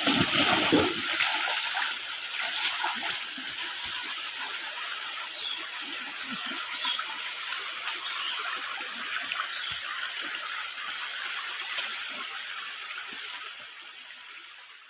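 Stream water running over rocks, with splashing in the first couple of seconds, then a steady rush that fades out near the end.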